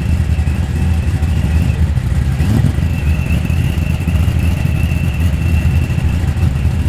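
Car engine running nearby, a continuous heavy rumble with a brief rise in revs about two and a half seconds in.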